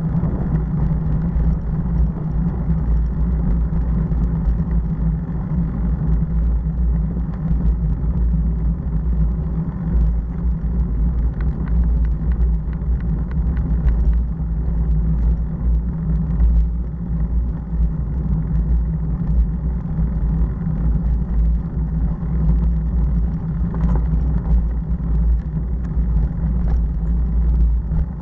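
Motorcycle riding at a steady road speed: a loud, steady low rumble of engine and wind noise.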